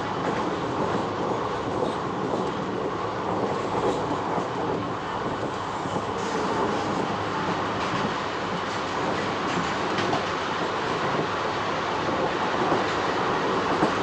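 Train running along the track: a steady rumble and rattle with faint occasional clicks.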